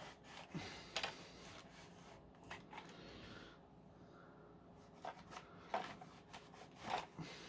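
Faint, irregular rubbing and soft clicks from hand-cleaning the plastic cyclone housing of a Dyson V10 stick vacuum: a cloth wiping and parts being handled.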